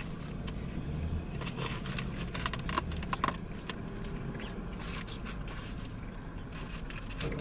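Scraping, crackling and clicking of a styrofoam takeout food container being handled. The sharp clicks cluster between about one and a half and three seconds in, over a steady low background hum.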